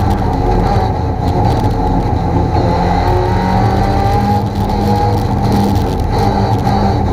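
Lada VFTS rally car's four-cylinder engine heard from inside the cabin, running hard under load, its pitch stepping up and down several times as the driver changes gear and lifts through the corners.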